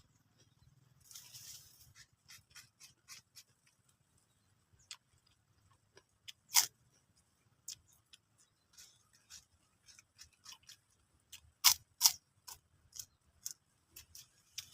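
Close-up chewing of crunchy raw papaya rujak: a string of irregular short crunches and mouth clicks, with a few much louder crunches about six and a half seconds in and twice around twelve seconds.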